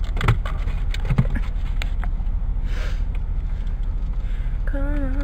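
Car engine idling, heard from inside the cabin as a steady low rumble, with a couple of light knocks in the first second or so.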